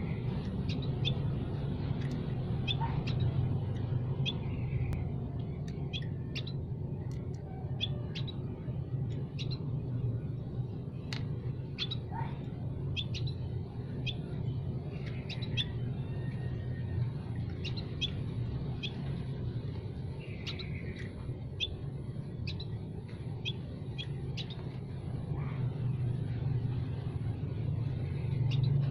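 Small songbirds chirping: short, sharp, high notes at irregular intervals, a few each second at the busiest, over a steady low rumble.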